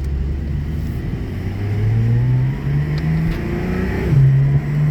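Porsche 911 twin-turbo flat-six engine pulling as the car accelerates, its pitch rising for a couple of seconds, then dropping suddenly at an upshift about four seconds in and holding steady.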